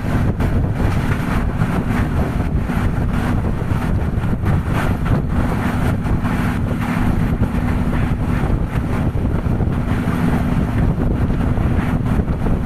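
A train in motion: steady rumble with wind buffeting the microphone and many short clacks. A steady hum runs through most of it and stops near the end.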